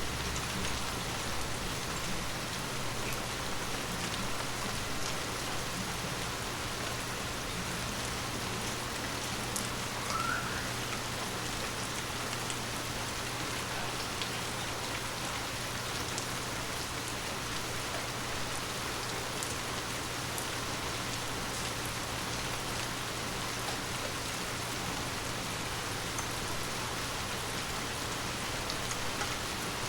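Steady gentle rain falling on forest leaves, with a soft even hiss and scattered individual drop ticks. A brief, short, rising chirp sounds about ten seconds in.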